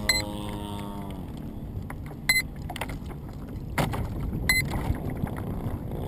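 A model aircraft's electric motor hums, then winds down and fades about a second in. After that there is a rushing noise with scattered clicks, and a short high beep about every two seconds.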